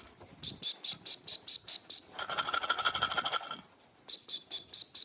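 Rapid short high whistle toots at one steady pitch, about four or five a second, calling birds in for food. In the middle they give way to a tin of feed being shaken, a dense rattle lasting about a second and a half.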